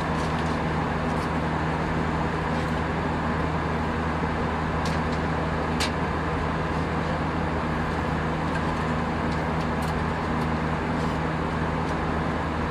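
Steady drone of an Airbus A319 airliner cabin: engine and airflow noise with a low hum, and a few faint clicks.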